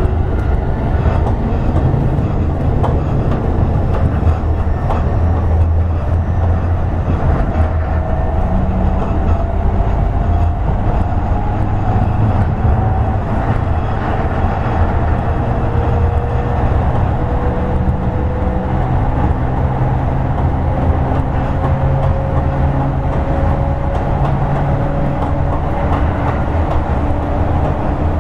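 Toei 10-300 series electric train running at speed: a steady rumble of wheels on rail, with the traction motors' whine climbing slowly in pitch as the train gathers speed.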